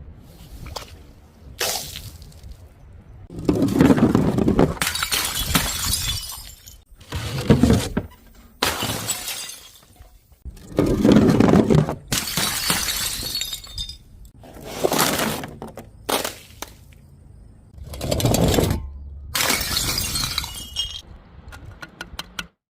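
Glass bottles and jars shattering one after another: a series of separate smashing crashes, some long and loud, broken by abrupt cuts between them.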